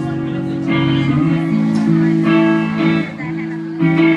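A guitar plays the intro of a song live, with ringing chords changing every second or so and a louder chord struck near the end.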